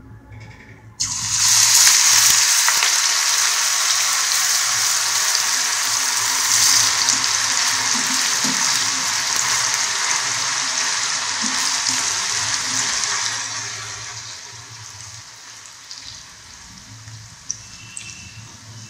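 Grated potato dropped into hot oil in a kadai, sizzling loudly as it starts to deep-fry. The sizzle starts suddenly about a second in, then dies down to a quieter sizzle after about thirteen seconds.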